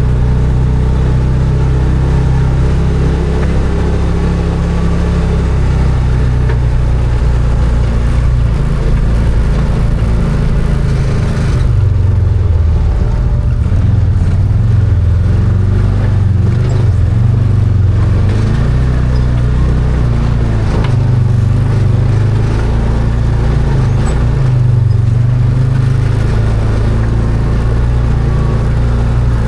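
Arctic Cat Wildcat 1000 side-by-side's V-twin engine running steadily while driving, its pitch shifting up and down with the throttle, most clearly about twelve seconds in.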